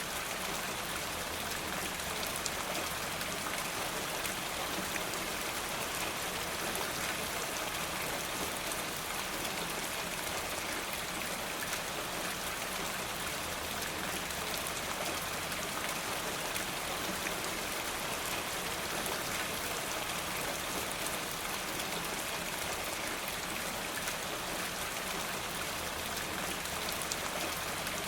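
Steady rain: an even hiss with many small raindrop ticks, unchanging throughout.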